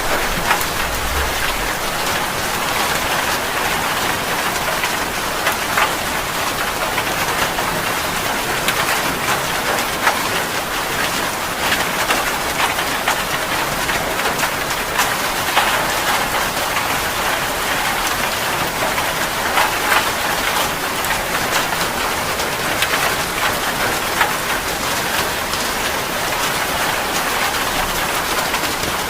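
Steady heavy rain falling on a surface, a continuous hiss dotted with many small sharp drop impacts.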